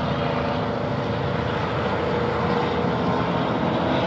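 A steady engine drone with a faint hum, slowly growing louder.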